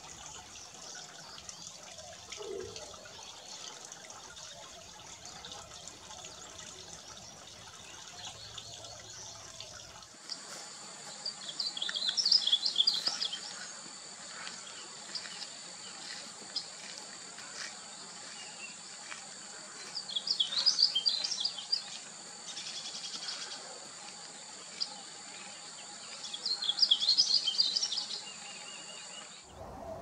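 Painted bunting singing: three short, rapid, sweet warbled phrases, each about two seconds long and several seconds apart, after a faint trickle of water at the start.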